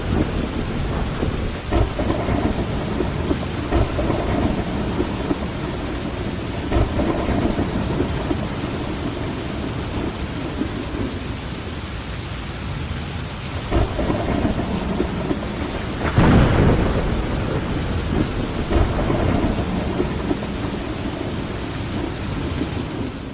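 Steady rain with rolling thunder rumbling under it; the thunder swells louder about two seconds in and again around fourteen and sixteen seconds in. The sound begins to fade out near the end.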